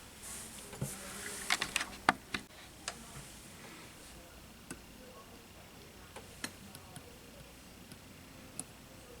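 Small tools and parts handled on a workbench during a drone frame repair. A soft rustle opens, then a quick run of clicks and taps comes about a second and a half in, followed by scattered single clicks.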